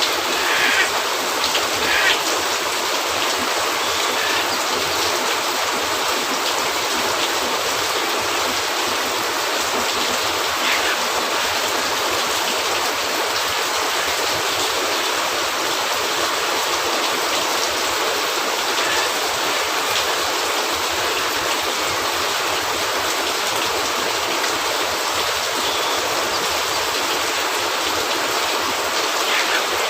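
Steady rain falling on a cabin roof, an even hiss, with a few sharp pops and crackles from a wood fire in a fireplace, most of them in the first couple of seconds and near the end.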